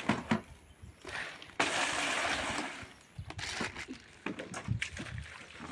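Water splashing and sloshing while a washroom floor and toilet are washed down. A gush of poured water starts about one and a half seconds in and lasts just over a second, followed by scattered small knocks and splashes.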